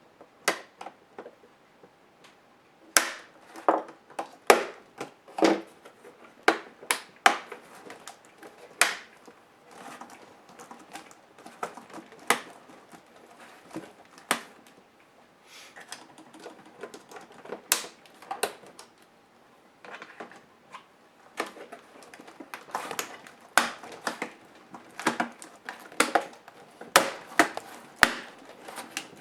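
Irregular sharp clicks and taps of plastic and small metal parts being handled as a Compaq HP 6720S laptop is taken apart: screws, tools and panels knocking against the plastic case. The clicks come in busy runs, thinning out for a while in the middle.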